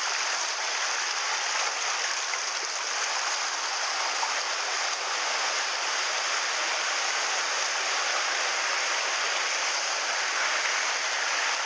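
Mountain stream water rushing over rocks, a steady even hiss.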